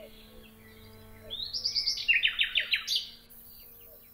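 Songbird singing: about a second in, a quick run of sharp descending chirps repeats several times a second for a couple of seconds, then a few scattered calls. A faint steady tone runs underneath.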